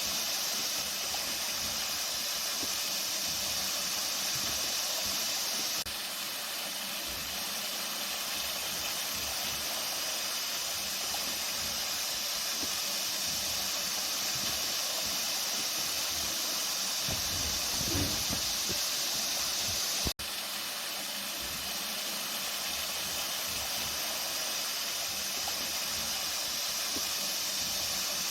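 Water flowing steadily, an even rushing hiss. A brief low rumble comes about eighteen seconds in, and the sound cuts out for an instant just after.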